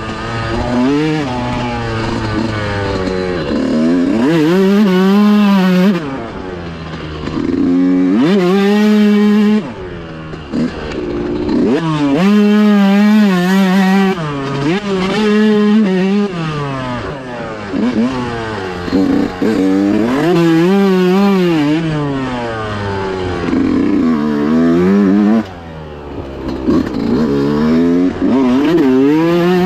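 125 dirt bike engine revving hard and backing off again and again, its pitch climbing through each burst and dropping every few seconds, as it is ridden around a tight turn track.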